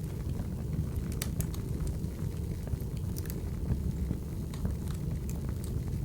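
Wood fire burning: a steady low rumble of flames with scattered sharp crackles and pops from the burning logs, clustered about a second in and again about three seconds in.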